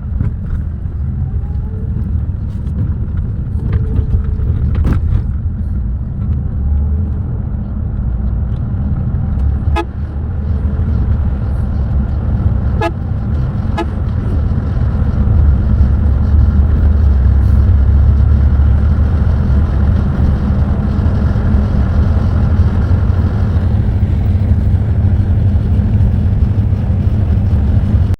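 Low engine and road rumble of a coach bus on the move, growing louder about halfway through, with a few short clicks in the middle.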